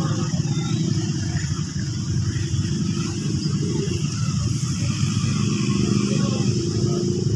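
Diesel-hauled passenger train running away along the track: a steady low rumble with a steady high hiss above it.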